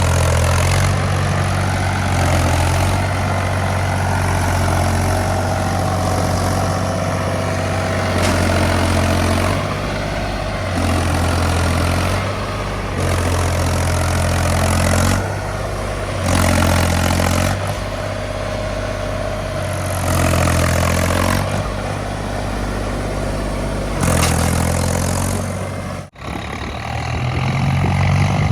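Heavy diesel engine running, its pitch and load stepping up and down as it is worked, with a brief sudden dropout near the end.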